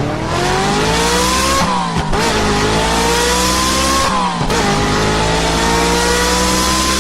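Racing car engine accelerating through the gears. The pitch climbs steadily, drops at a gear shift nearly two seconds in and again about four seconds in, then climbs again.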